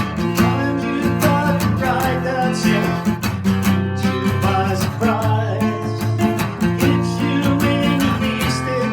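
Acoustic guitar music, strummed, with a melody line over it, in an instrumental passage of a country-style song.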